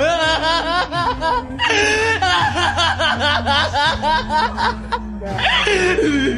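A man's drawn-out maniacal laughter, rapid pulsing cackles in long runs with brief breaks for breath, over background music with a steady low bass.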